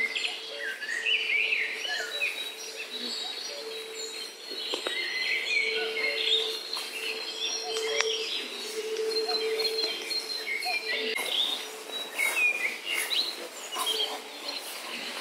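Songbirds chirping and singing, many short calls throughout, over rustling in the grass, with a steady low hum that comes and goes.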